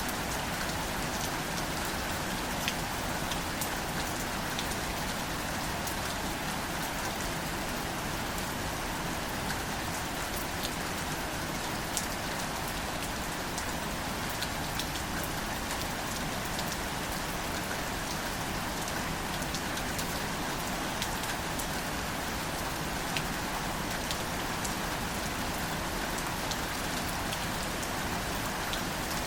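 Steady, gentle rain falling on greater celandine wildflowers, an even patter with individual drops tapping sharply here and there.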